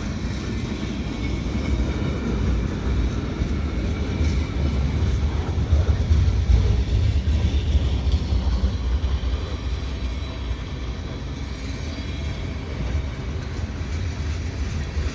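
Freight cars of a CN manifest train rolling past: a steady low rumble of steel wheels on rail.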